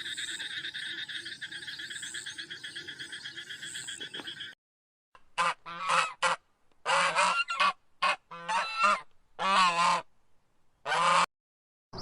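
A steady, fast trilling sound that cuts off about four and a half seconds in, then after a short gap a series of about seven loud calls from farm waterfowl.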